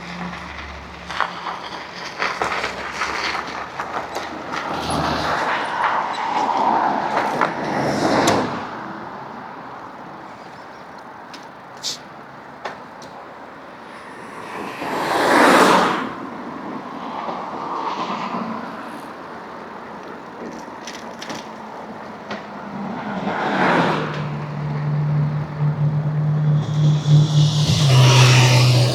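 Ride on an electric bike on a road: steady wind and tyre noise, with two loud whooshes of vehicles going by, one about halfway through and one about two-thirds through. A steady low engine hum joins near the end and drops in pitch just before the end.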